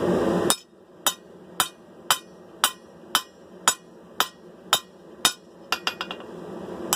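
Hand hammer striking a steel sword blank on an anvil: sharp, ringing blows at about two a second, around ten in a row, then a quick run of lighter taps near the end. It opens with a loud rushing noise that cuts off suddenly about half a second in.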